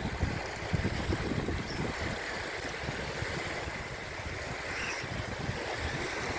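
Wind buffeting the microphone in gusts, with waves lapping on the lake shore.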